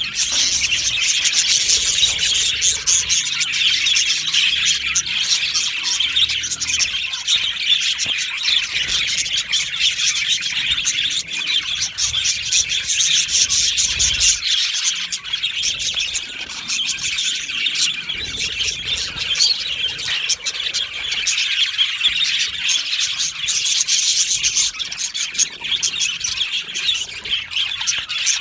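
A colony of budgerigars chattering and chirping all at once, a dense, unbroken mass of warbles and high-pitched squawks.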